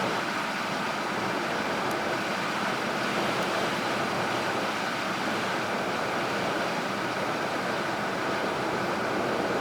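Steady road and wind noise heard from inside a moving vehicle's cabin, an even rush with no speech.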